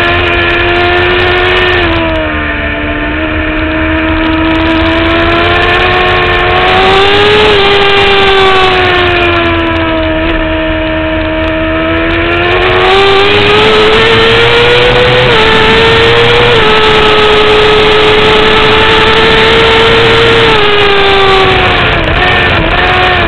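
2009 Kawasaki ZX-6R's inline-four sport-bike engine at racing speed, heard onboard. The engine note falls and climbs with the throttle, holds high and steady for several seconds, then drops with brief wobbles in pitch near the end, with a steady low rumble underneath.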